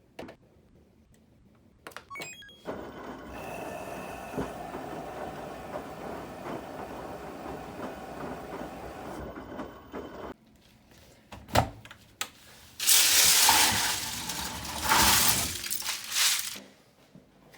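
Loose plastic LEGO pieces clattering and rattling in two loud bursts near the end, just after a sharp knock. A steady noise runs for several seconds before that.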